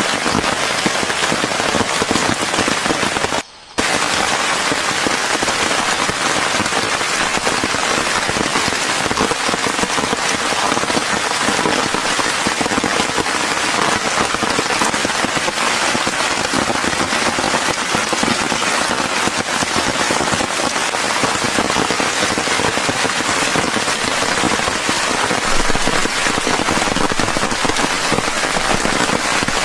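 Heavy rain falling in a dense, steady patter, broken by a brief cut-out about three and a half seconds in.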